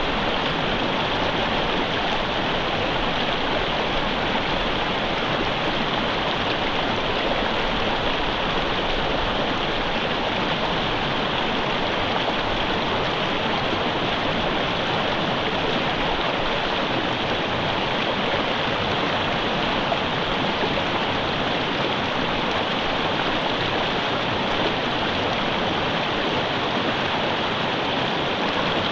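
Mountain river running over rocks, a steady rushing and gurgling of water that holds even throughout.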